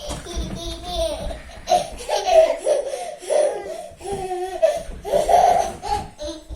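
A young child laughing over and over in short, high-pitched bursts.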